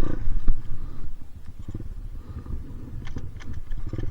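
Dirt bike engine idling: a low, uneven rumble, with a few short clicks about three seconds in.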